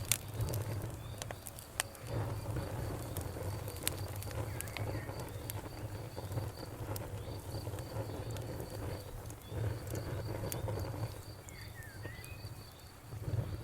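Wood fire burning in a fireplace, with a low steady rumble of flames and frequent sharp crackles and pops, the loudest near the start and about two seconds in. A steady, rapid, high-pitched chirping runs alongside.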